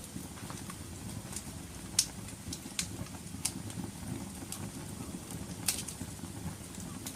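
Wood fire crackling in a fireplace: a steady low rumble of burning with sharp, irregular pops and snaps, the loudest about two seconds in and again near six seconds.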